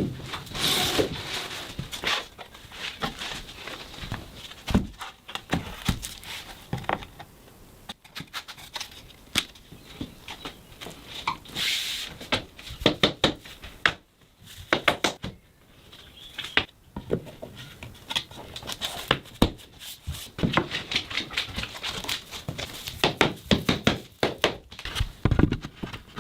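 A long run of irregular knocks, taps and clatter, denser and louder in patches near the start, about twelve seconds in, and toward the end.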